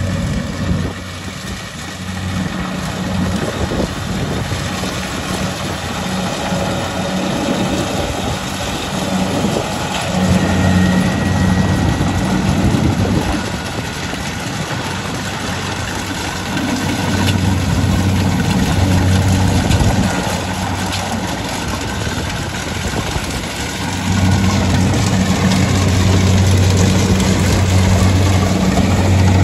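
Rice harvesting machine's engine running with a steady low hum that swells louder several times, along with the machine's general mechanical clatter and rush.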